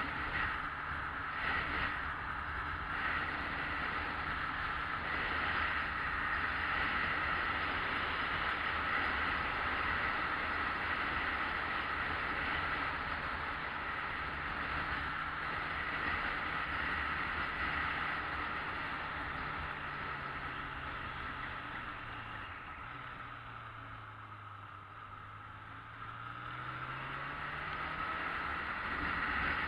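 Yamaha XJ600S Diversion's air-cooled inline-four engine running while riding, with wind noise. Near the end the engine note falls as it slows, then climbs again as it picks up speed.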